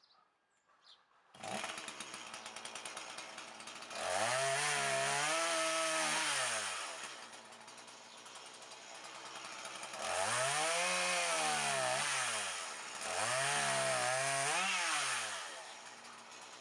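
Stihl MS 182 two-stroke chainsaw comes in about a second in and idles. It is then run up to full throttle three times, as in cutting firewood, the engine pitch rising and sagging through each run before falling back to idle between them.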